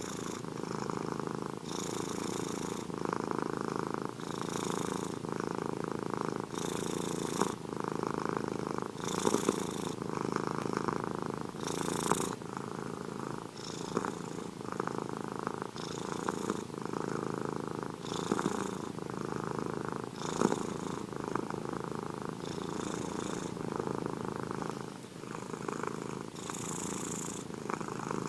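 Domestic cat purring steadily and continuously, the purr swelling with each breath about every two seconds.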